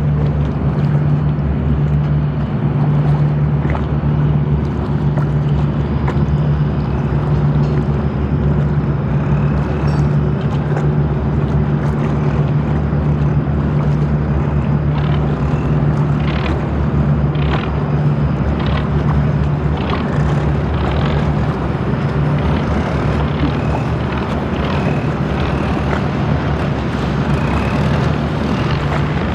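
Boat engine running steadily at an even, low pitch, with water noise and scattered short clicks in the second half.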